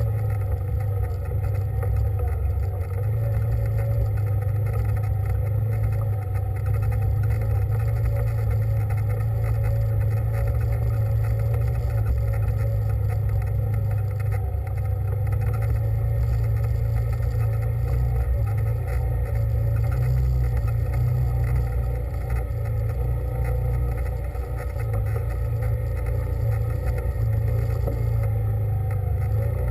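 Vehicle engine running at a steady speed while driving, a constant low drone with a rough rumble underneath.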